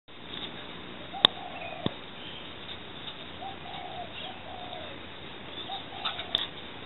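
Soft, repeated cooing calls of a bird over steady background noise. Two sharp knocks come a little over a second in and about half a second apart, and a few quick clicks follow near the end.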